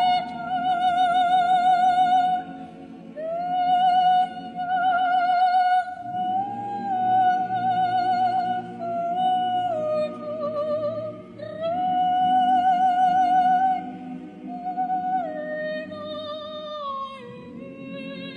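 A solo soprano sings long held high notes with a wide vibrato in an operatic style, moving step by step between pitches. Beneath her a choir holds soft, steady chords.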